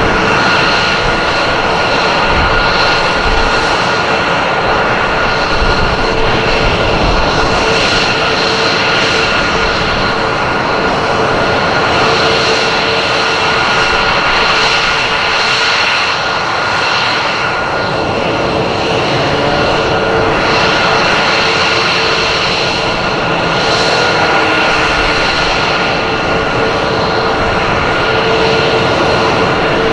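F-22 Raptor's twin turbofan jet engines, a loud steady roar with a high whine over it as the jet flies its demonstration.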